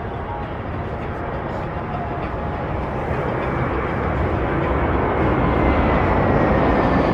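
Airliner on landing approach flying low overhead: engine rumble growing steadily louder, with a faint whine that slides down in pitch near the end as it passes.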